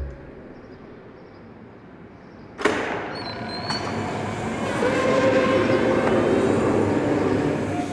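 A train running on the rails. After a quiet low rumble, the sound starts abruptly about two and a half seconds in and continues loud and steady, with faint squealing tones over it.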